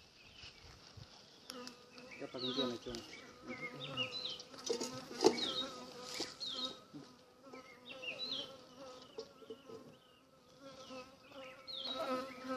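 Honeybees buzzing steadily around a hive, a low drone with a clear hum, joined by repeated short, high, falling chirps. A few sharp knocks, the loudest about five seconds in.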